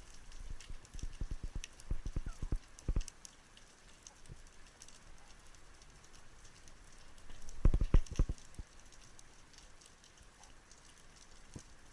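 Quick runs of dull knocks and taps: a cluster about one to three seconds in and a louder one near eight seconds, over a faint steady crackle.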